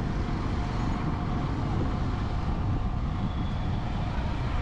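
Steady road traffic noise: vehicles running along a busy road, with a strong low rumble.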